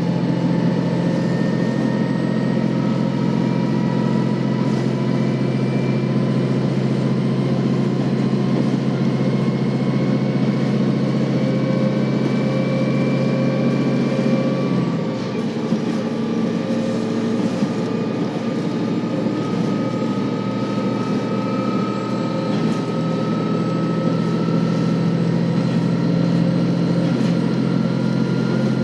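KiHa 40-series diesel railcar running under power: a steady engine drone with thin whining tones that rise slowly as it gathers speed. About halfway through, the engine note drops and changes for a few seconds, then settles back into a steady drone.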